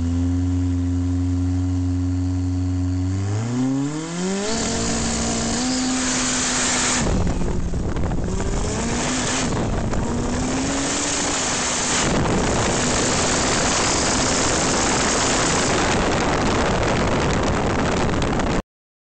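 Stroked, turbocharged Toyota 18R four-cylinder engine of a drag-racing altered, first held at steady revs and then rising sharply in pitch at about 3.5 seconds into a loud, rough run with its pitch wavering and dipping several times. The sound cuts off suddenly near the end.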